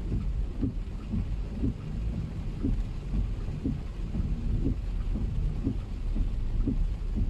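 Heavy rain on a car, heard from inside the cabin: a deep steady rumble with short knocks repeating about twice a second.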